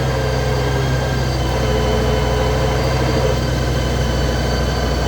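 2008 Honda GL1800 Gold Wing's flat-six engine idling in neutral with the clutch engaged, a steady hum with a wavering higher tone over it. It is the strange noise and vibration that the owner traces to the clutch when the bike is in neutral with the clutch out.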